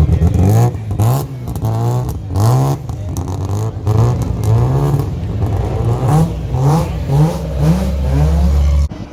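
Mazda RX3 rally car's rotary engine revving hard, its pitch climbing and dropping again and again in quick succession as it is driven through gears and corners. The sound cuts off suddenly near the end.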